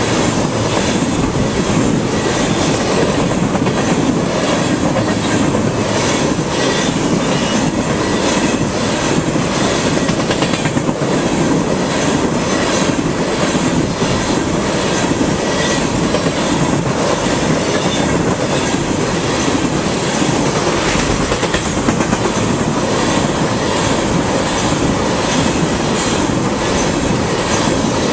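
Railroad tank cars of a freight train rolling steadily past at track level: a loud continuous rumble of steel wheels on rail, with repeated clickety-clack as the wheel sets cross the rail joints.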